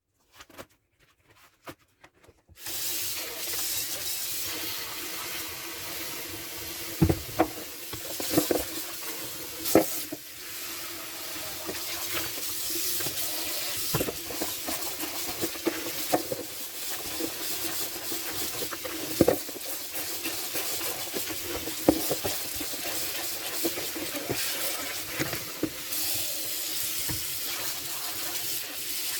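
Tap water running steadily into a sink while dishes are washed by hand, with sharp clinks and knocks of dishes now and then. The water comes on about two and a half seconds in, after a few faint clicks.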